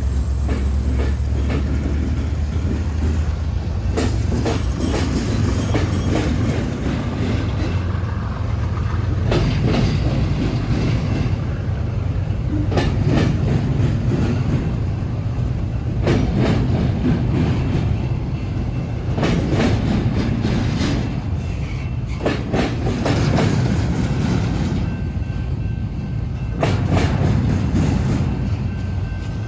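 BNSF freight train's cars rolling over a railroad diamond crossing: a steady low rumble with groups of sharp wheel clacks about every three seconds as each car's wheels bang across the diamond's gaps, and a faint high wheel squeal.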